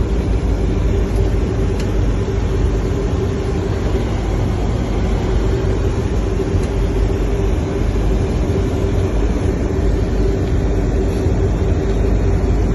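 Steady flight-deck noise of a Boeing 737-800 on final approach: airflow and engine noise, with a steady humming tone underneath.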